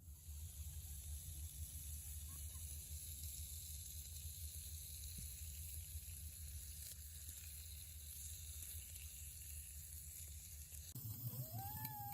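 Food sizzling over a charcoal fire, a steady hiss. Near the end a short rising call sounds over it.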